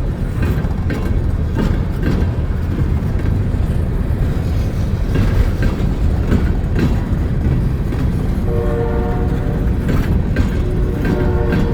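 Train rolling by with a steady heavy rumble and wheels clicking over rail joints. About two-thirds of the way through its horn sounds, stops briefly, then sounds again near the end.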